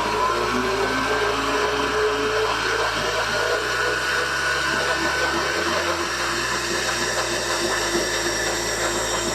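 Stand mixer's motor running steadily as it beats cake batter in the bowl.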